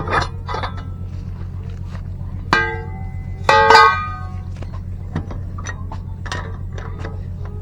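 Metal tools and brake parts clinking and tapping, with two bright ringing metallic strikes about two and a half seconds in and again a second later, over a steady low hum.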